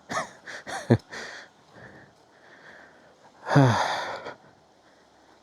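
A man's short wordless voice sounds, then about three and a half seconds in a breathy sigh that slides down in pitch.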